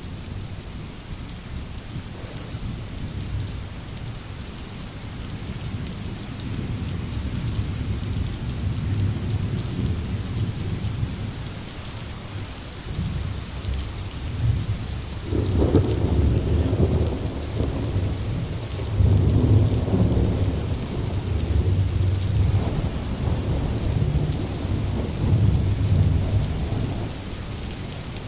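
Steady rain falling on foliage with low rolling thunder. The rumble builds gradually, breaks out more loudly about halfway through, and swells again several times in the second half.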